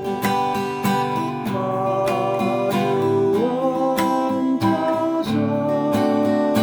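Acoustic guitar strummed in an even rhythm, playing a song intro in the key of G, with a held melody line over the chords that slides up between notes about halfway through.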